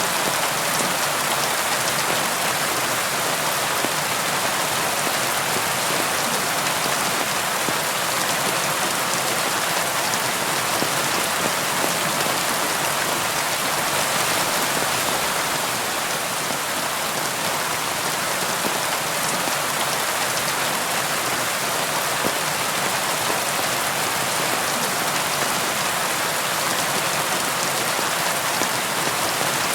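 Steady, even rainfall, a dense hiss of raindrops with no thunder.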